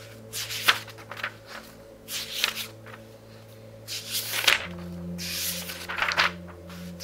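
Thin pages of a very thick book being turned quickly by hand: about four rustling page turns, a second or so apart. Soft background music with low held notes runs underneath.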